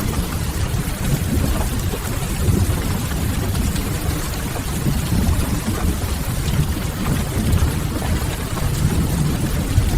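Steady rain on a window mixed with a crackling wood fire, over a strong low rumble.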